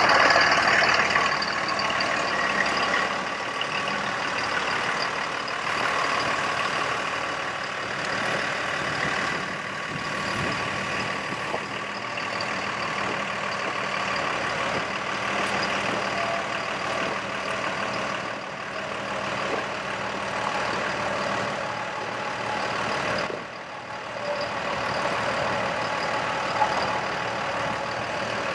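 A Freightliner M2 bucket truck's diesel engine running steadily with its hydraulic system driving the Altec aerial boom through its functions, a steady whine over the engine sound. There is a short dip in level a little before the end.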